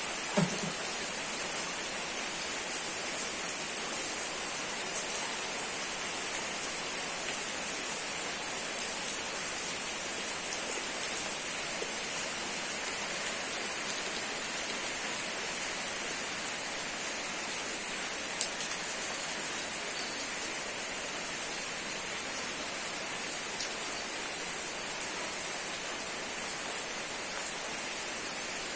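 Steady rain falling, an even hiss with a few faint drop ticks. A brief low knock sounds right at the start.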